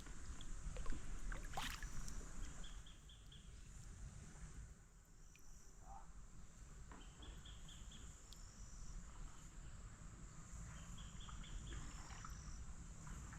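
Faint outdoor ambience of a creek: a steady high insect drone, short groups of quick repeated chirps every few seconds, and a low rumble underneath.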